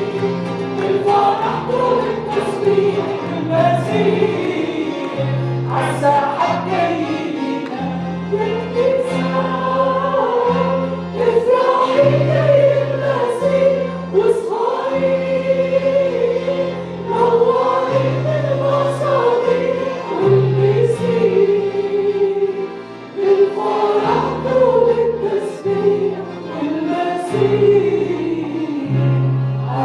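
Worship song sung by a group of voices with a backing band: bass line, keyboard and cymbal hits.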